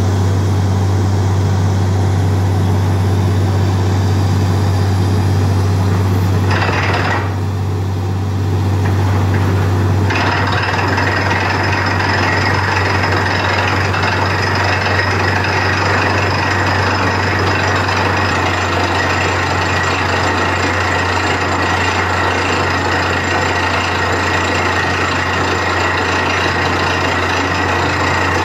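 Borewell drilling rig running steadily, a loud constant mechanical din with a deep engine hum beneath. It dips briefly and then grows harsher about ten seconds in.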